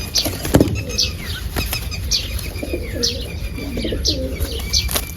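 Birds chirping in short, high, falling calls about every half second, with low pigeon coos in the middle.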